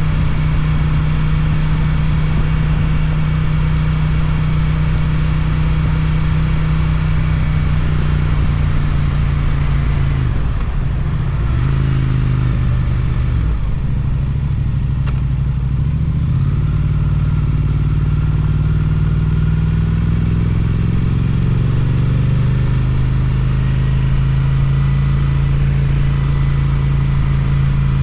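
Suzuki twin-cylinder motorcycle engine through an Akrapovič exhaust, heard on board while riding. Its note holds steady, drops about ten seconds in as the bike slows, then climbs gradually over several seconds and settles at a steady cruise again.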